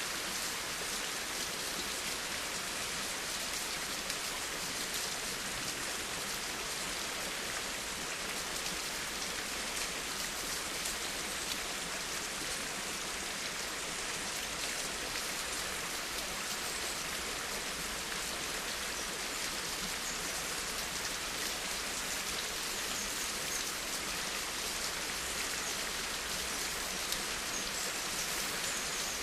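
Steady rain falling, with the patter of many drops hitting a surface.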